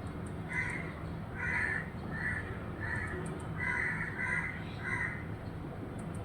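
A bird giving a run of about seven short, harsh calls, over a steady low background hum.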